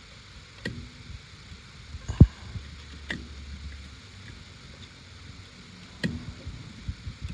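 Handling clicks and knocks as a replacement compressor start relay is pushed onto the refrigerator compressor's terminals, with a louder knock about two seconds in.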